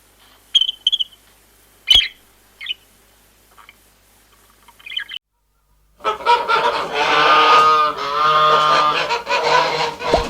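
Farm animal sounds: scattered short, high bird chirps and squawks for about five seconds, then, after a brief silent cut, a loud run of pitched animal calls.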